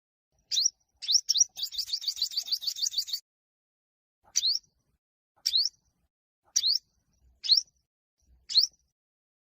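Yellow-bellied sunbird singing: a fast trill of about a dozen high, quick upslurred notes in the first few seconds, then single upslurred chips about once a second.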